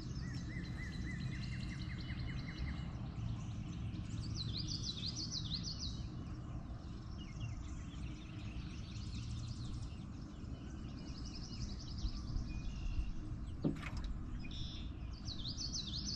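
Songbirds singing in repeated short trills and chirps over a steady low outdoor rumble. About three-quarters of the way through comes a single knock against the boat, which the anglers take for the boat hitting bottom or a fish hitting the hull.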